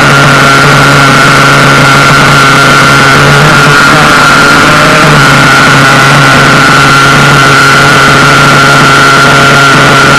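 Small RC buggy engine idling steadily and loudly, with a steady high-pitched tone over it.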